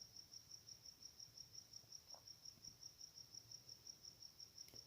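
Faint insect chirping: a high-pitched, steady pulse repeating about seven times a second.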